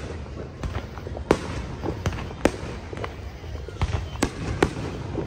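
Aerial fireworks bursting overhead: an irregular string of sharp bangs and cracks, roughly two or three a second, over a low rumble.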